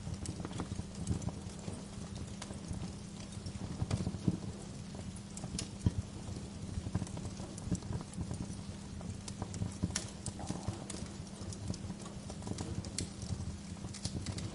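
Wood fire crackling in a fireplace: irregular snaps and pops, a few sharper than the rest, over a steady low hum.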